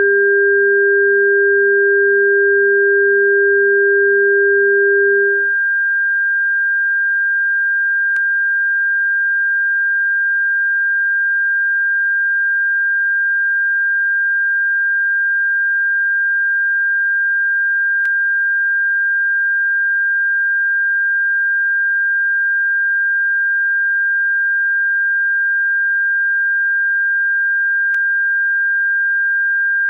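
Synthesized pure sine tones of a bird-repellent track: a lower steady tone stops about five seconds in, leaving a single high steady tone, with faint clicks about every ten seconds.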